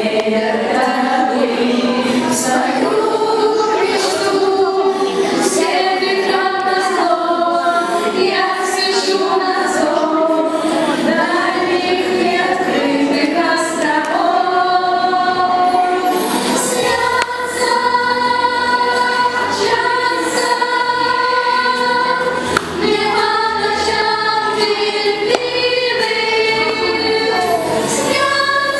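A choir of schoolchildren singing a melody together, with long held notes.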